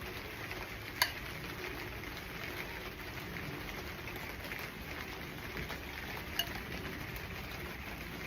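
Steady hiss and patter of rain falling, with two sharp clicks, one about a second in and one near six seconds.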